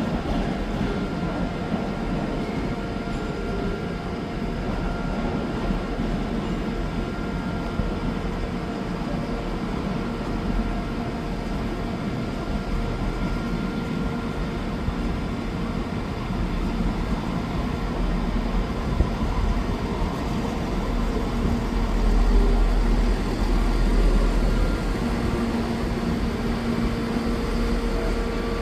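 Train running close by: a steady drone with several held tones, growing louder for a few seconds about twenty-two seconds in.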